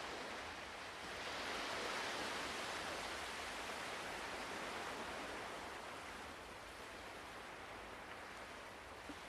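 Ocean waves washing in a soft, steady hiss, swelling about a second in and slowly easing toward the end.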